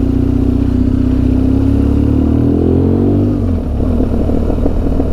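Motorcycle engine running while riding, with steady revs; about two and a half seconds in the revs climb for about a second, then drop off suddenly, and the engine note stays rougher and uneven near the end.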